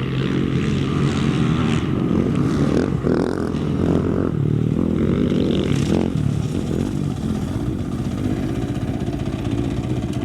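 Off-road racing engine running hard and continuously. It builds over the first second and eases slightly after about six seconds.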